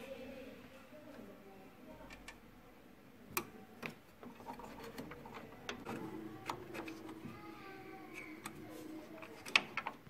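Irregular clicks and knocks of hard parts being handled and fitted, the sharpest near the end, during work on an HP LaserJet P3005 printer's gear set.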